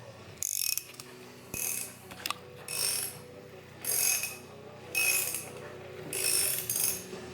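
A hand socket ratchet clicking in repeated strokes, about one a second, as bolts on the front of a Toyota 22R engine are worked.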